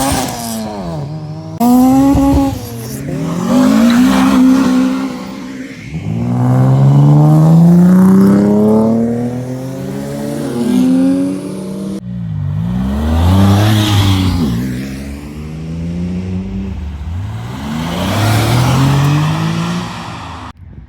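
Modified Japanese performance cars accelerating hard away, engines revving up through the gears. The pitch climbs and drops back repeatedly with each shift. The sound breaks off abruptly about twelve seconds in and resumes with another car pulling away.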